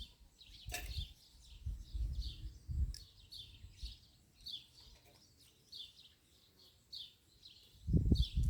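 A small bird chirping over and over, short high notes at about two a second. There is a click about a second in and a low rumble near the end.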